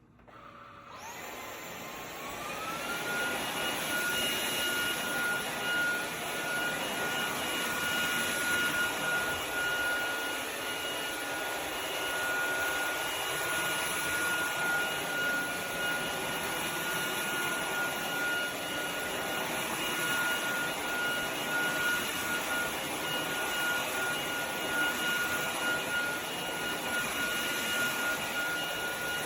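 KCLASO cordless stick vacuum's motor starting about a second in, its whine climbing in pitch over the next two seconds, then running steadily with a high whine over a rushing air hiss.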